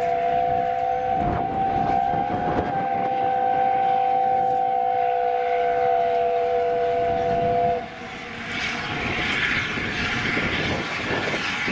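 Steam locomotive whistle held in one long, steady blast that cuts off about eight seconds in. The noise of the train follows.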